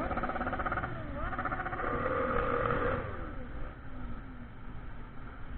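Motorcycle engine running while riding, its note climbing about a second in and held, then easing off and quieter from about three seconds in.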